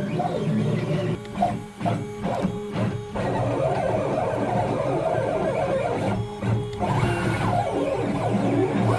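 CNC machine's stepper motors whining as they drive a drag knife through foam board, the pitch shifting with each move and briefly stopping and starting between moves.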